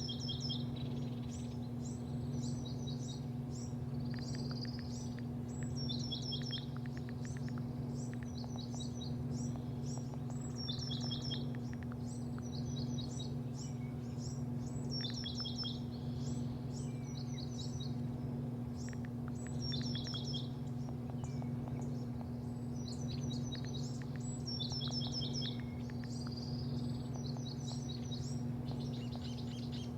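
Small birds chirping in quick, repeated runs of short falling notes, a burst every second or two, over a steady low mechanical hum.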